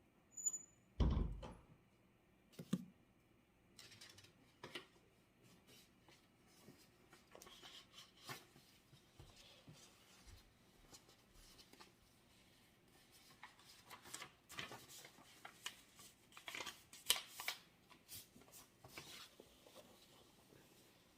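Small handling noises at a study desk: a dull thump about a second in, then scattered light clicks and paper-like rustles, busiest near the end.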